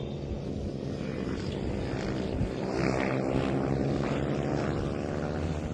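Small 110cc mini-bike racing engine running hard at racing speed, its pitch shifting slightly with the throttle.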